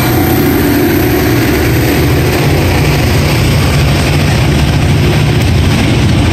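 Freight train passing at close range: a vintage EMD diesel locomotive running past, then tank cars rolling by, loud and steady throughout.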